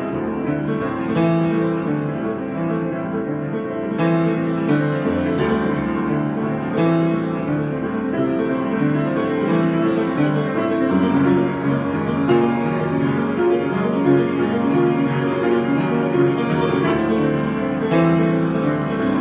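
A solo piano improvising slowly: sustained chords that ring on, with new chords struck every few seconds.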